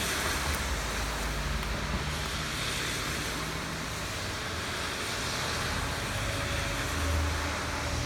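Steady rain falling as an even hiss, with a low rumble underneath that swells about seven seconds in.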